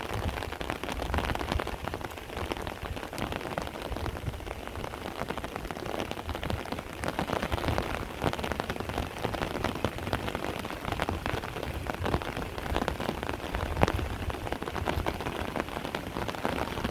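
Heavy rain falling steadily, a dense patter of many drops striking close surfaces, with one sharper drop hit about fourteen seconds in.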